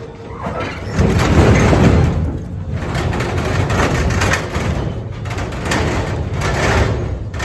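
A load of red oak logs and split quarters sliding and tumbling off the tipped bed of a dump trailer: a loud rumbling clatter of wood on steel and wood on wood with many knocks, setting in about a second in.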